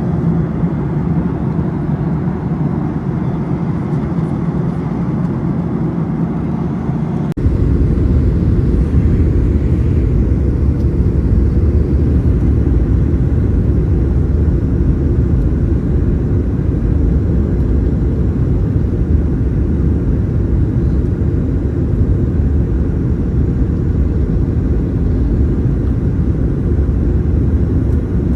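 Steady jet-airliner cabin noise inside a Boeing 737-900ER, the rumble of its CFM56 engines and airflow heard from a window seat. About seven seconds in it cuts abruptly to a louder, deeper rumble that holds steady.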